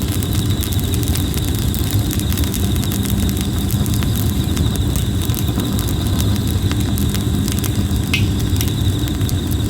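Red plum-wood campfire crackling, with many small sharp pops over a steady low rumble of the burning fire. A continuous high insect trill runs behind it.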